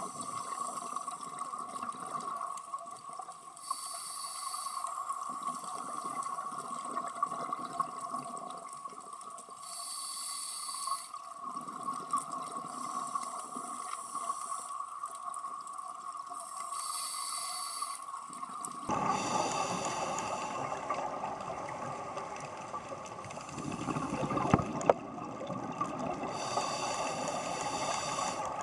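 Scuba diver breathing through a regulator underwater: slow breaths, with four hissing bursts of exhaled bubbles about six to seven seconds apart over a steady hum. From about two-thirds of the way in, a louder rushing noise is added.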